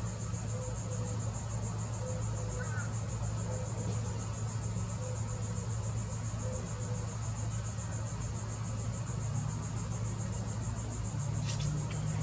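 Summer insects, crickets or katydids, trilling: a steady, rapidly pulsing high-pitched buzz, over a low steady hum.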